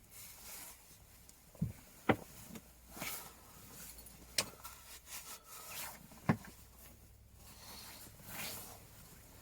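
A few sharp clicks and knocks, four in all, spaced irregularly over soft rustling.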